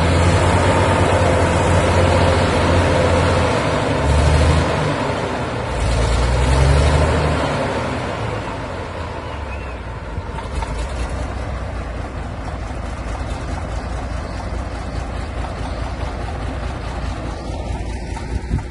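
Heavy tractor engine working hard, revving and surging with its pitch rising and falling, then settling after about eight seconds to a steadier, quieter running.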